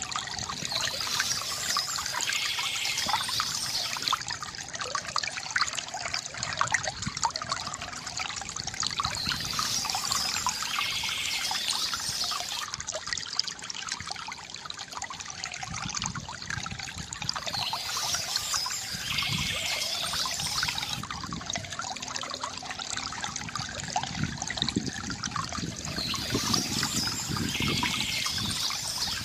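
Water from a bamboo fountain trickling and gurgling steadily, with a brighter swell in the sound returning about every eight seconds.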